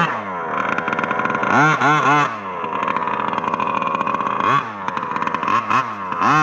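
Losi DBXL 2.0 RC truck's small two-stroke gas engine revving and dropping back as it is driven. It gives three quick blips of the throttle about two seconds in and more rises and falls in pitch near the end.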